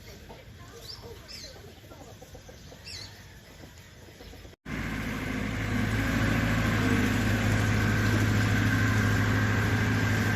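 Birds chirping softly, then, after a sudden cut, an engine running steadily with a strong low hum.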